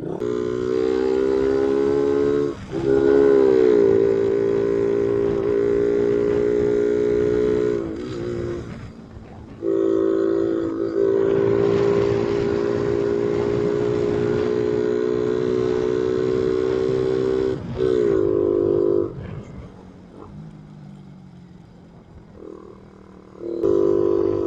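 Suzuki Raider 150 motorcycle engine running hard under throttle, with brief drops in the note, as between gears, and two spells where the throttle eases off for a few seconds. The engine seems to struggle to breathe, which the rider suspects is an ignition coil fault or an air intake problem.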